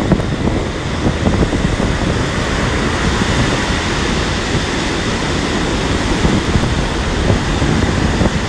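Strong wind buffeting the microphone in gusts over the steady noise of storm surf on a pebble beach.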